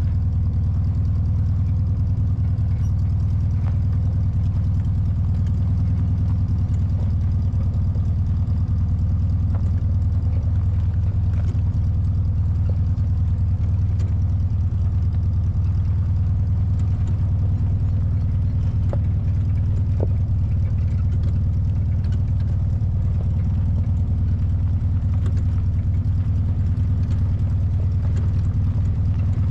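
1968 VW Baja Bug's engine running with a steady, deep drone that holds the same pitch and loudness throughout.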